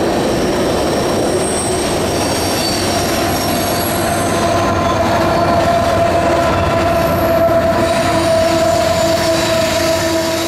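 A loaded grain hopper train rolls across a steel trestle bridge, its wheels squealing with several steady high-pitched tones over a continuous rumble. It grows a little louder around the middle as the distributed-power locomotive crosses.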